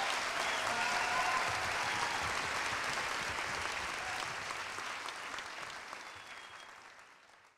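Audience applauding, with a few cheering voices in the first second or two, fading out steadily to silence.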